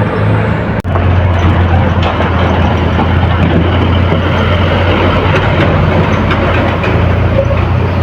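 Heavy vehicles in a traffic jam: the diesel engines of buses and trucks running with a steady low drone and traffic noise. The sound cuts out for an instant just under a second in.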